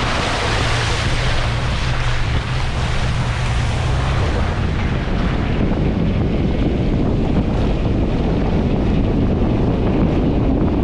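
Suzuki Grand Vitara's engine running as the vehicle drives off-road, with wind buffeting the microphone. A steady engine tone holds for about four seconds, then gives way to a broader, noisier drone.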